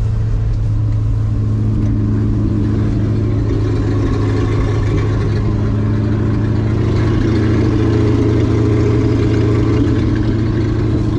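1966 Ford truck's V8 engine running steadily at idle in neutral, with no load, still warming up after a cold start in well-below-zero weather. It gets a little louder about two-thirds of the way in.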